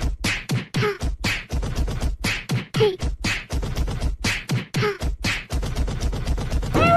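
Beatbox-style rhythm with fast, even percussive hits about four a second and short falling vocal blips. A held pitched note comes in near the end.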